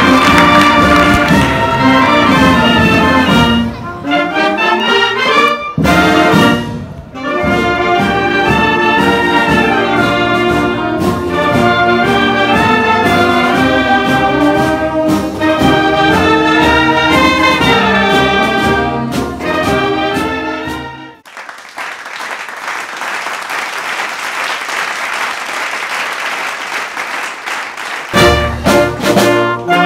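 Brass band music, with two short breaks about four and six seconds in. About twenty seconds in it gives way to several seconds of even, tuneless noise, and the brass comes back near the end.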